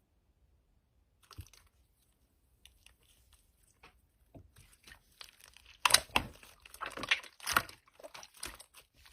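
Slime being squished and pressed by hand, making crackling, popping noises that start as a few scattered clicks and grow denser and louder after a few seconds.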